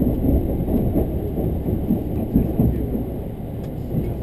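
Tobu Railway limited express train running over the rails, heard from inside the passenger car: a steady low rumble of wheels and running gear with small irregular knocks.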